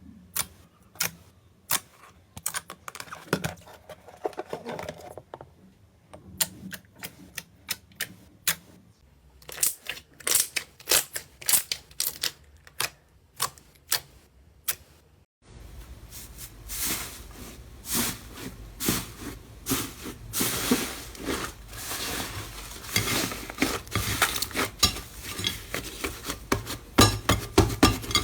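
Slime being squeezed and poked by hand, giving sharp clicks and pops: sparse at first, then a denser crackling through the second half.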